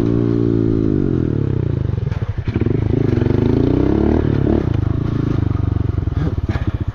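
Pit bike's single-cylinder engine coming off the throttle, its pitch falling, with a brief blip of revs about three to four seconds in. Near the end it drops to a slow, lumpy idle.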